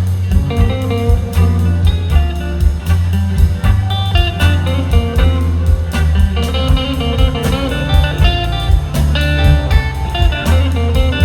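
Live blues-rock band playing an instrumental passage without vocals: electric guitar lead over bass and a steady drum beat.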